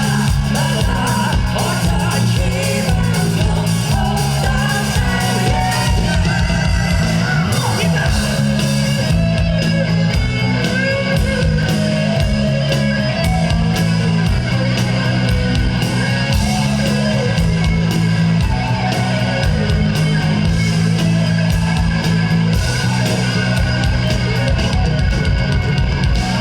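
Live rock band playing a loud, driving song with electric guitar, bass and a steady pounding drum beat, with a voice singing over it.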